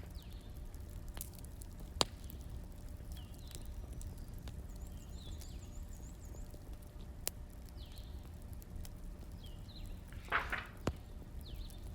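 Wood fire burning with a steady low rumble and a few sharp, scattered crackling pops, the loudest about two seconds in. Faint high bird-like chirps come and go.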